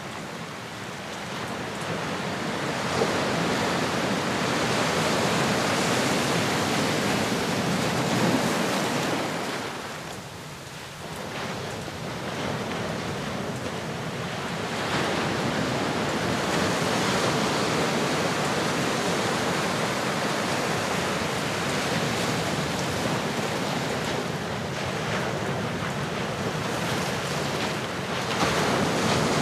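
Ocean surf: a steady wash of breaking waves that swells and ebbs, easing off briefly about ten seconds in before building again.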